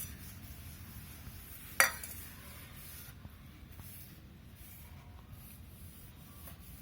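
A single sharp clink about two seconds in, as painting supplies are cleared away, a hard object knocking against a dish or glass; otherwise faint room noise.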